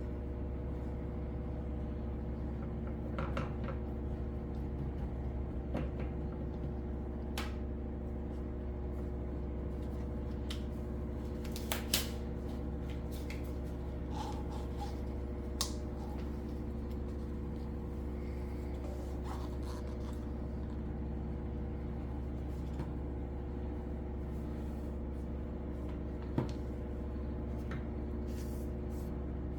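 A steady low hum throughout, with scattered light clicks and taps from resin cups and tools being handled, the sharpest about twelve seconds in.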